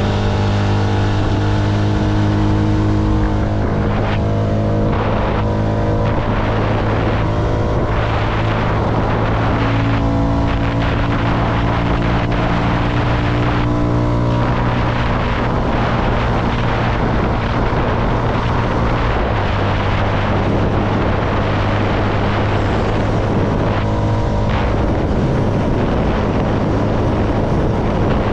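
CFMoto motorcycle engine running at a steady cruise, its note holding level and dropping a little about two-thirds of the way through, with wind rushing on the microphone.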